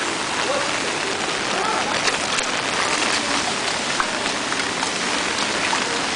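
Heavy rain falling on wet concrete: a steady hiss with scattered sharper drips and splashes.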